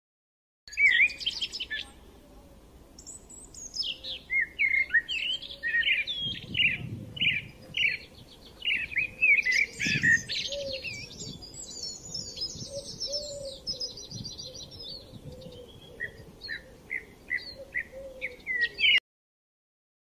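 Birds chirping and singing: a long string of short, quickly rising and falling chirps, with a fast high trill about ten to fifteen seconds in. It starts about a second in and cuts off suddenly near the end.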